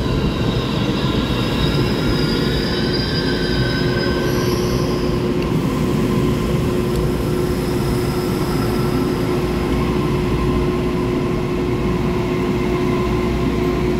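Taiwan Railway EMU3000 electric multiple unit rolling slowly along the platform as it pulls in, giving a steady loud rumble of wheels with a constant hum. Thin high wheel squeals sound over it for the first four seconds or so, then fade.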